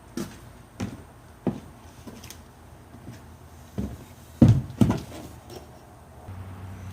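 Scattered sharp knocks and clunks: a few single ones in the first second and a half, another near four seconds, then a louder close pair about four and a half seconds in.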